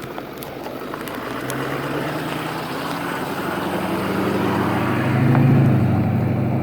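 A motor vehicle's engine running with a low steady hum that grows louder over several seconds and is loudest shortly before the end.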